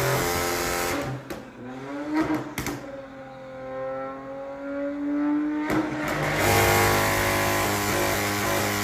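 Turbocharged car engine on anti-lag: a held rev drops off with sharp bangs from the exhaust about one and two and a half seconds in, the engine settles to a quieter wavering note, cracks again near six seconds, and then holds a loud steady rev.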